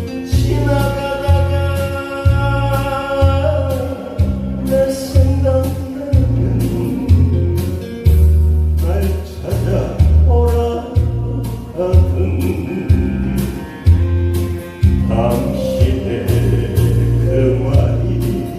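A song sung over a backing track with a steady low beat about twice a second.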